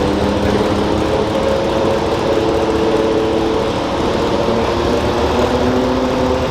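Garden tractor engine running steadily at high revs, its pitch shifting slightly.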